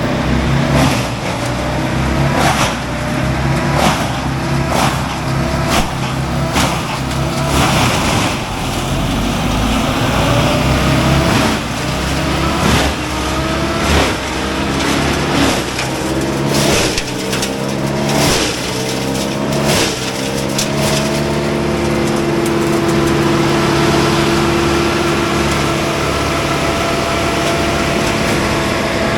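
A heavy machine's engine rises in pitch again and again, with many sharp cracks and knocks over it. From about two-thirds of the way in, it settles into a steady running note.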